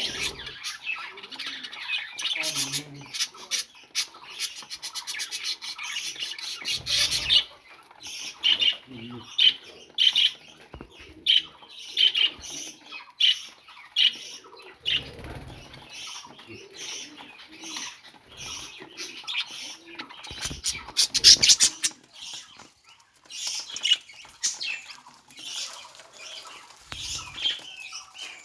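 Budgerigar chattering and squawking with many short chirps, broken by a few thumps, the loudest about seven seconds in and again near twenty-one seconds.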